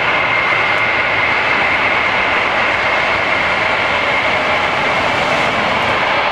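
Jet engines of a large cargo aircraft running, a steady loud roar with a high whine held on one pitch.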